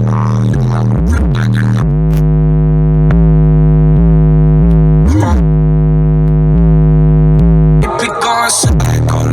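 Loud bass-heavy hip-hop track played through a car audio system: deep bass hits that drop in pitch, then a long held synth chord from about two seconds in that cuts off near the end, where drums and hi-hats come back in.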